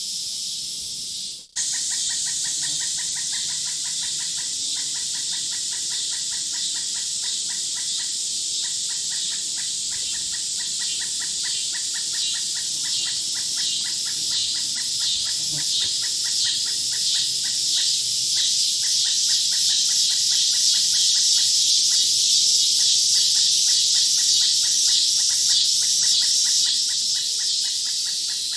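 Insects chirring in a steady, fast pulsing chorus that swells louder past the middle, after a short break about a second and a half in.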